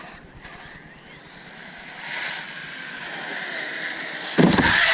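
Electric RC car speeding up, its motor whine rising in pitch and getting louder. A sudden loud rush of motor and tyre noise comes near the end as the car arrives close by.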